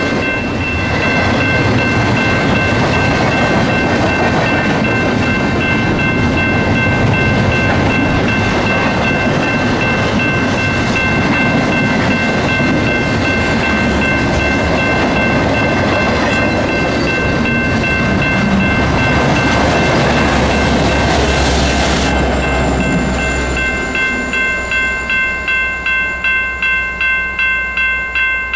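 A train passing close by, with rumbling wheels and rail clatter. A steady high electronic ringing, like a grade-crossing bell, sounds over it throughout. Once the train noise drops away near the end, the ringing is heard pulsing about two and a half times a second, then it cuts off.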